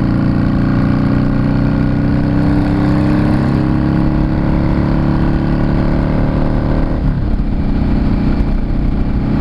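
Yamaha Drag Star 650's air-cooled V-twin engine running under throttle, its pitch slowly climbing. About seven seconds in, the throttle closes and the engine note drops.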